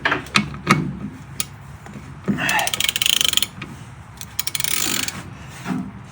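Socket-wrench ratchet clicking in two quick runs as a fastener is turned, with a few sharp metal knocks of tools near the start.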